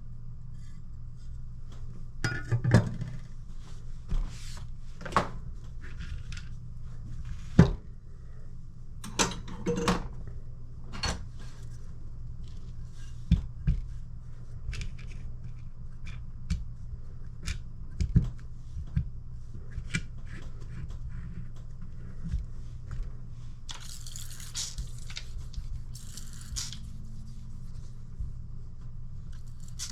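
Scattered clicks and knocks of steel knives and sharpening stones being handled and set down at the bench, over a steady low hum. Two short stretches of hissing, scraping noise come near the end.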